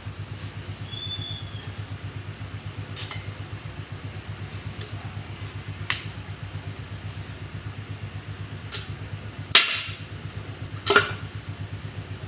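Sharp metallic clinks and knocks of tools and parts being handled during rear axle bearing work, about five in all, the two loudest near the end, over a steady low hum.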